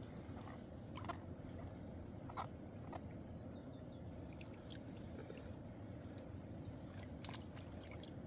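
Steady low rush of a mountain river's flowing water, with a few scattered sharp clicks and knocks and a brief run of faint high chirps about three and a half seconds in.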